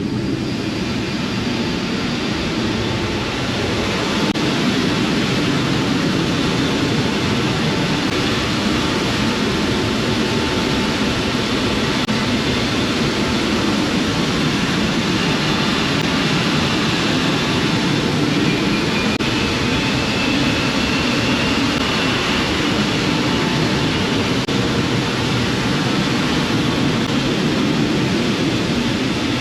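C-17 Globemaster III jet engines running with a loud, steady roar and a faint high whine, getting a little louder in the first few seconds.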